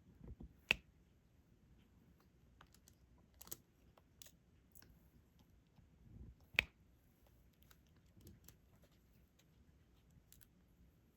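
Scattered small clicks and taps of diamond-painting work: a drill pen picking up resin drills and pressing them onto the sticky canvas. Two sharper, louder clicks stand out, about a second in and about six and a half seconds in.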